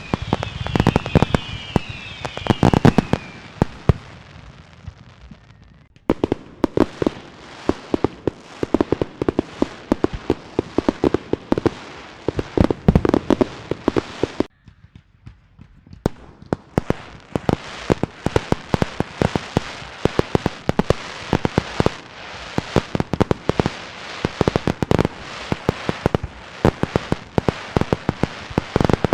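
Fireworks and firecrackers going off in rapid strings of sharp bangs and crackles, with a few falling whistles in the first three seconds. The crackling cuts out for about a second and a half around the middle, then starts again.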